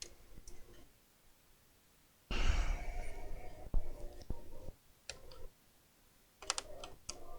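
Clicks and clatter of a laptop's parts being handled during disassembly, with a longer, louder stretch of handling noise in the middle and a quick run of clicks near the end.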